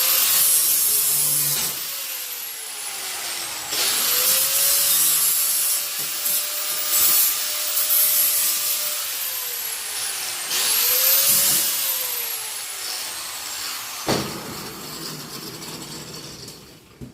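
Angle grinder with a flap disc grinding the sharp edges of cut steel angle iron. The motor whines up to speed three times, grinding on the metal, and winds down between runs.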